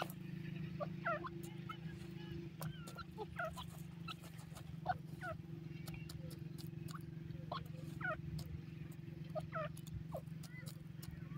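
Birds chirping in short, scattered notes, some sliding up or down in pitch, over a steady low hum.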